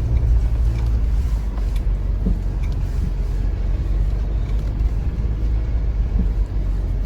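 Pickup truck running slowly over a rough dirt trail: a steady low rumble of engine and tyres, with a few light knocks and rattles.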